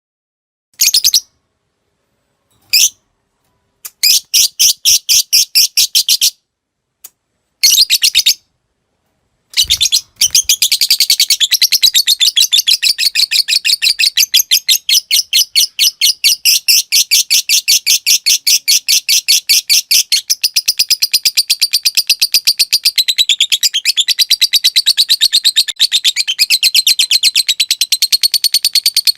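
Lovebird song: a few short clipped chirps and quick bursts of rapid clicking notes (the 'ngetik'), then, about ten seconds in, one long unbroken rapid chattering trill (the 'ngekek panjang'), high-pitched.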